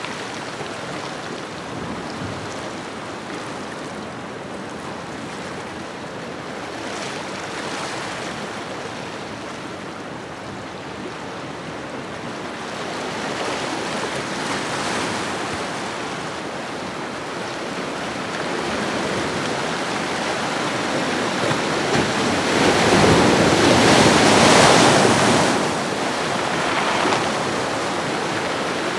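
Ocean waves washing onto a shoreline: a steady rush of surf that swells and ebbs, with one larger wave breaking about three-quarters of the way through.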